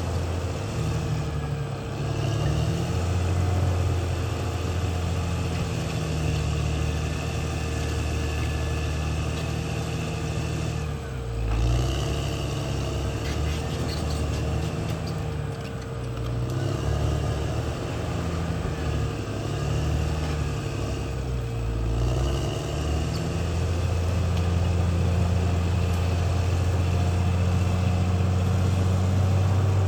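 Diesel engine of a CAT D6R XL crawler bulldozer running under work, its pitch dipping briefly and recovering about three times, then holding steadier and a little louder near the end.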